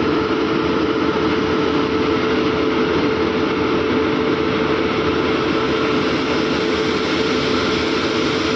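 Train in motion: a steady, even rushing rumble with a constant hum running through it.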